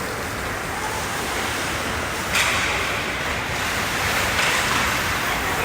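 Steady wash of noise from a hockey game in progress, with a sudden louder hissing rush about two and a half seconds in and another swell near the end.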